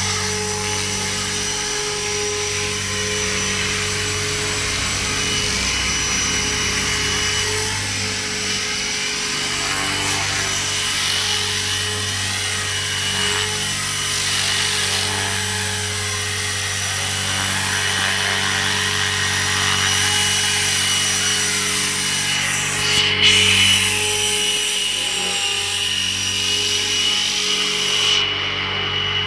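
A machine running at a steady speed: a constant hum with a rasping, hissing noise over it, with a brief louder surge about 23 seconds in.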